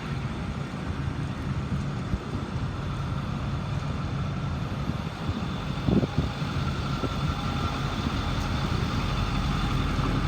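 2009 Ford F-550's 6.4-liter Power Stroke V8 diesel idling steadily, with a short knock about halfway through.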